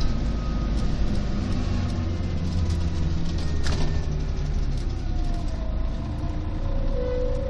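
Scania CN113CLL city bus heard from inside while riding, its Scania DSC 11.71 diesel engine and Voith D863.3 automatic gearbox giving a steady low rumble, muffled and bass-heavy through a partly covered phone microphone. A single knock comes about three and a half seconds in, and a faint whine rises in pitch over the last couple of seconds.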